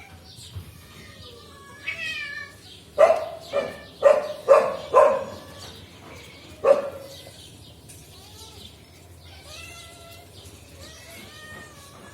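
A cat meowing repeatedly. Soft calls come first, then a quick series of short, loud meows in the middle, and quieter calls again near the end.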